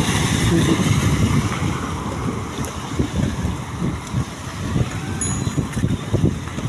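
Wind buffeting the microphone while riding a bicycle in the rain: an uneven low rumble that eases a little in the second half.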